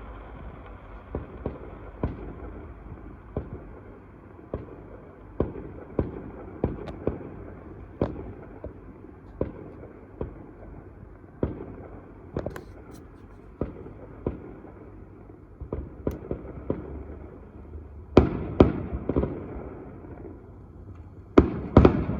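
Fireworks going off: a string of separate bangs about once or twice a second over a steady background hiss, each with a short echoing tail. Louder clusters of bangs come near the end.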